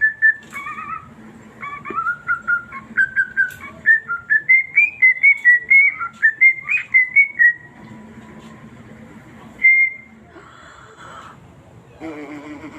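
Eclectus parrot whistling a tune of short clear notes that step up and down in pitch for about seven seconds, then one more whistled note about ten seconds in.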